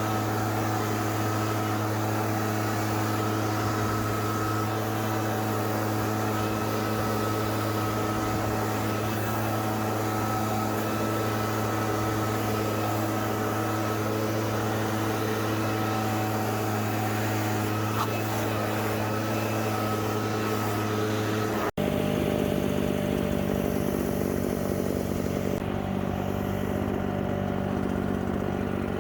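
Two-stroke string trimmer engine running steadily at high revs. About 22 seconds in the sound breaks off and cuts straight to another steady engine sound at a lower, different pitch.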